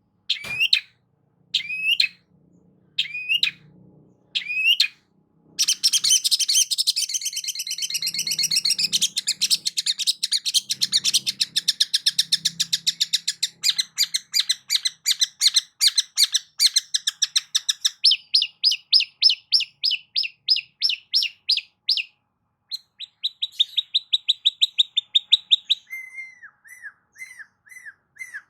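Long-tailed shrike (cendet) singing. It opens with short rising calls about once a second, breaks into a dense chattering run of song, then goes on with fast repeated notes and trills, ending on lower, slower notes.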